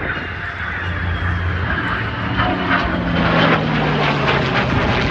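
Aircraft engine noise from a plane flying past, a steady loud rush with a low engine tone that shifts in pitch partway through.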